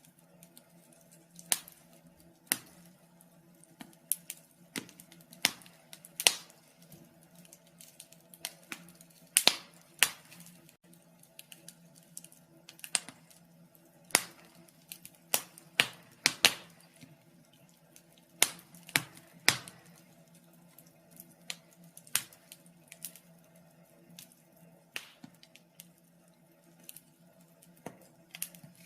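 Wood fire crackling in a fireplace: irregular sharp pops and snaps, one every second or so, over a faint steady hum.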